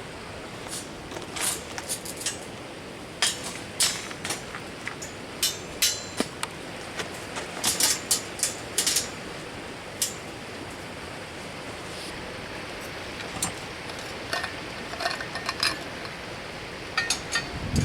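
Steady rush of a river with many scattered sharp clinks and knocks, some ringing briefly, like small hard objects being handled.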